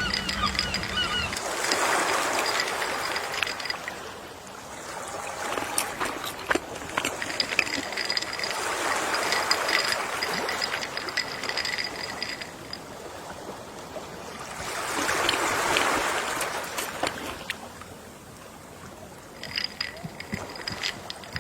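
Gentle ocean waves washing onto a shore, three slow swells that rise and fall about every six to seven seconds.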